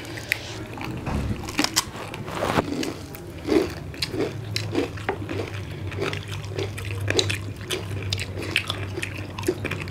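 Several people chewing and smacking their lips while eating roast chicken and sel roti: a run of wet mouth clicks and smacks. A steady low hum runs underneath from about halfway in.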